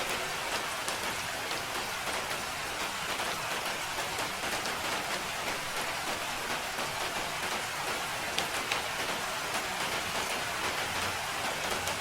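Steady rain falling, a dense even hiss with many separate drop ticks scattered through it.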